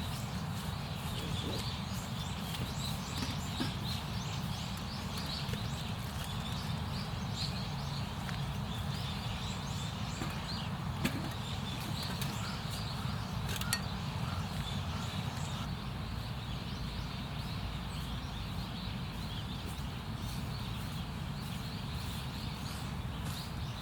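Small birds chirping over a steady low rumble, with a few faint clicks.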